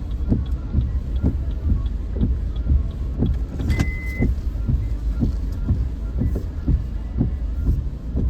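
Car driving, heard from inside the cabin: a steady low engine and road rumble with a regular soft thumping about two or three times a second, and a short high beep near the middle.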